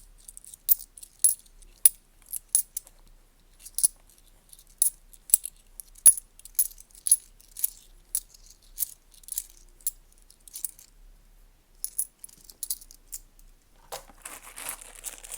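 10p coins clinking as they are handled and set down one at a time, irregular sharp metallic clicks. Near the end they give way to a denser rattle of several coins moving together.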